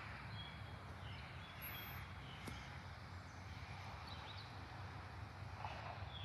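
A few short, high bird chirps over a faint, steady low rumble and hiss.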